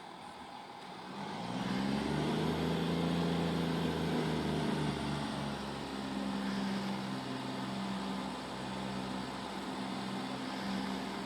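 Diesel engines of a Great Western Railway Class 166 diesel multiple unit powering up as the train pulls away. The drone grows loud about a second in, swells for a few seconds, then settles to a steady, somewhat quieter run.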